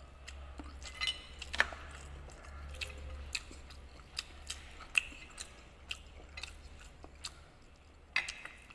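A person chewing kimbap close to the microphone: irregular wet mouth clicks and smacks, over a steady low hum.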